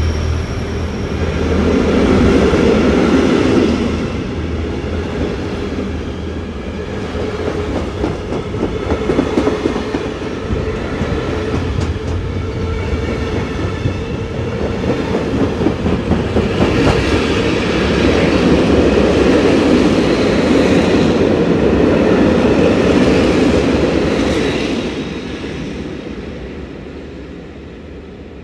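Vossloh DE18 diesel-electric locomotive at full throttle hauling a freight train of steel wagons past, its engine running over a clatter of wagon wheels on the rails. The sound swells twice and fades away near the end.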